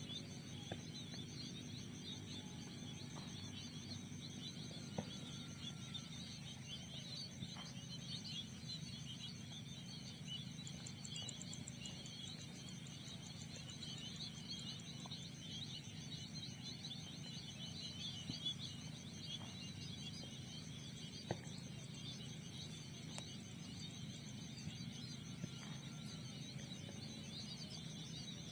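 Steady outdoor insect chorus, a dense high shimmering trill, with a low background hum and a few short faint chirps and clicks scattered through.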